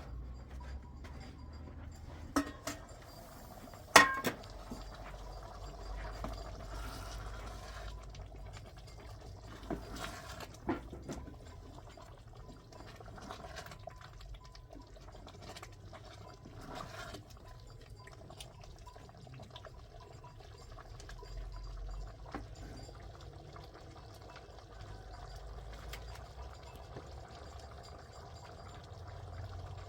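Water being poured or filling a container, with one sharp clink about four seconds in and a few lighter knocks.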